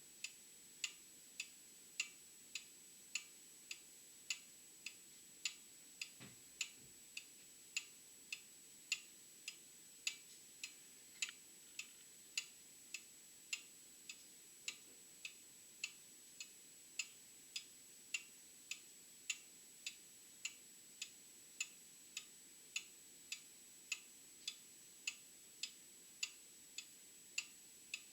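Old mechanical clock ticking steadily, a little under two ticks a second with a slight alternating tick-tock. A faint steady high-pitched whine runs underneath.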